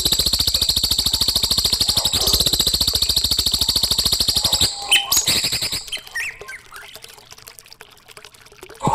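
A songbird's rapid, buzzy high-pitched trill that lasts about four and a half seconds, followed by a few short separate notes, then a quieter stretch before another loud burst near the end. It is part of a recorded masteran song used to tutor young songbirds.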